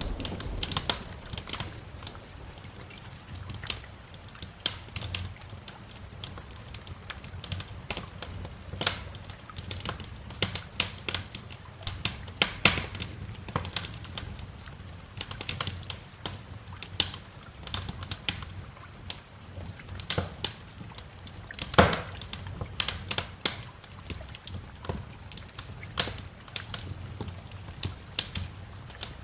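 Wood fire crackling in a fireplace: irregular sharp pops and snaps, a couple of louder ones partway through, over a low steady rumble.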